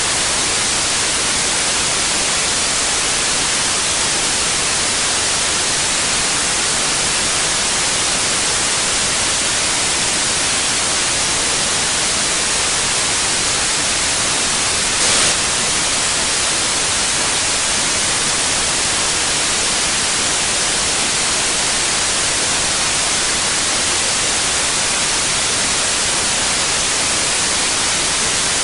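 Steady white noise: an even, bright hiss that does not change, apart from a brief slight surge about halfway through.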